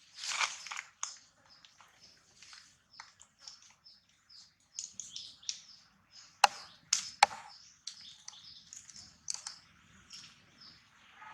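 Many short, high chirps from small birds throughout, with a brief noisy burst at the start and three sharp cracks a little past halfway.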